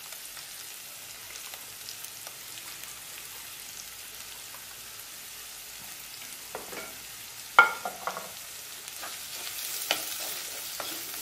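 Onion and crushed chilli, ginger and garlic frying in coconut oil in a clay pot: a soft, steady sizzle. A wooden spatula knocks and scrapes against the pot a few times, loudest about two-thirds of the way through.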